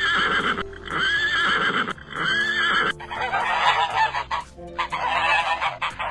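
Animal calls: three short, arched pitched calls about a second apart, then about halfway a denser, rougher run of calls.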